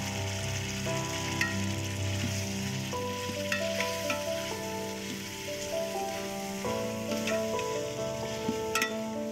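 Chicken and spices sizzling in oil in an aluminium pot while a metal spoon stirs them, clicking against the pot a few times. Background music with long held notes plays throughout.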